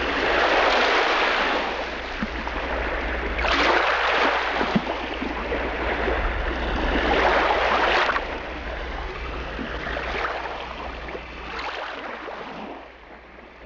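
Rushing water and waves, surging every few seconds, over a steady low rumble.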